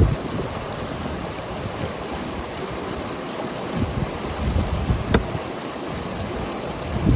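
River water flowing steadily, a continuous rushing sound. A few low rumbles come and go, and there is one sharp click about five seconds in.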